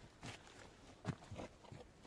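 Footsteps: a few irregular, soft steps, the loudest about a second in.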